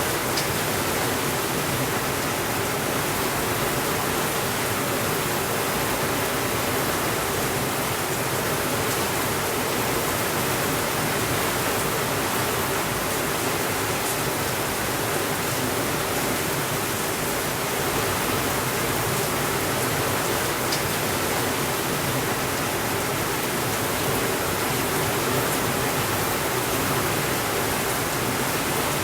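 Steady rainfall, a dense, even hiss with no letup, broken only by a couple of faint ticks.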